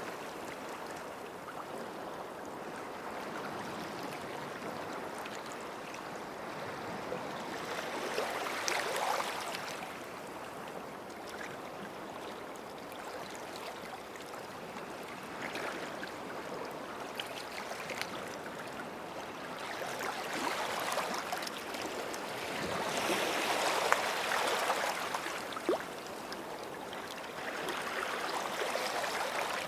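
Small sea waves washing up a beach shore, the wash swelling and fading every several seconds, with light crackling as the water runs back.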